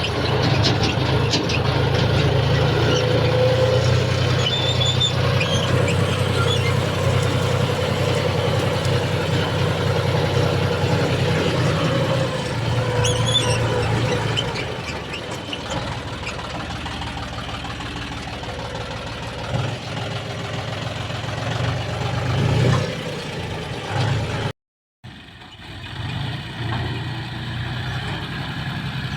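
John Deere 5039 tractor's diesel engine running under load, louder and heavier for about the first half, then easing to a quieter, steadier run. The sound drops out for a split second near the end.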